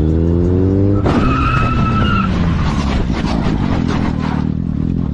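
Vehicle engine revving up, then about a second in a sudden tyre squeal and crash, followed by a few seconds of clattering and scraping.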